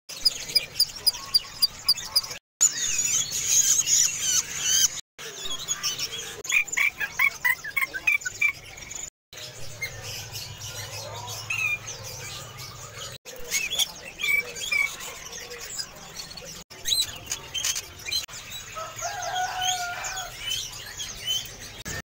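Caged birds chirping and calling in a series of short spliced clips, several birds in turn, with abrupt silent breaks between the clips. The first clip holds a rapid even run of sharp chips, about five a second.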